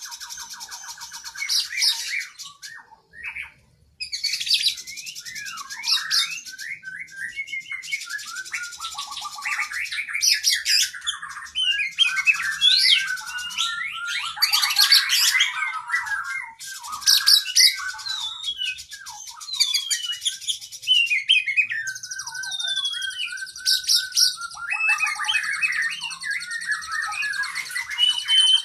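Oriental magpie-robin (kacer) singing a long, fast, varied song of whistles, trills and sweeping notes, with mimicked fill-in phrases, broken by a brief pause about three seconds in.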